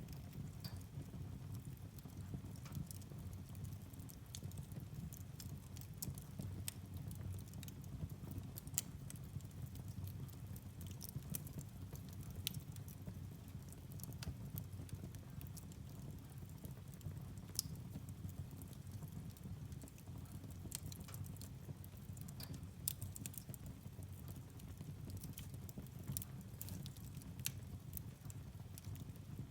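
Firewood burning in a fireplace: a steady low fire rumble with frequent irregular crackles and pops of burning logs, a few sharper snaps standing out.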